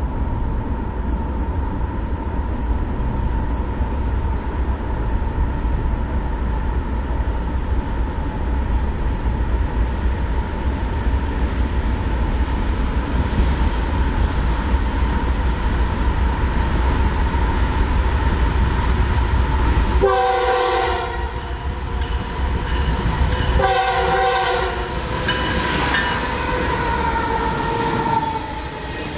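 BNSF freight train running with a steady rumble and a thin whine. About 20 s in the diesel locomotive's multi-chime air horn sounds: two blasts, then a fainter third.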